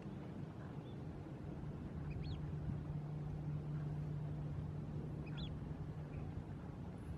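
Two short, high bird calls, about two and five and a half seconds in, over a steady low hum.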